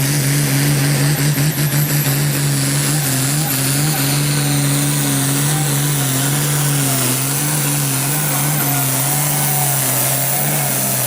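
Limited pro stock pulling tractor's diesel engine running hard at high, steady revs under load during a pull, its pitch wavering slightly.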